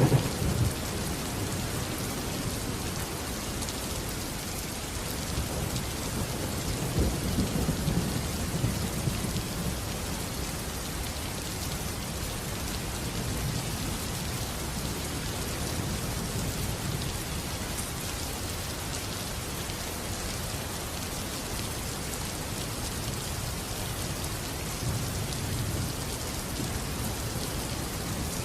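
Steady rain with low rolls of thunder. The thunder swells at the very start, most strongly about seven seconds in, and again near the end.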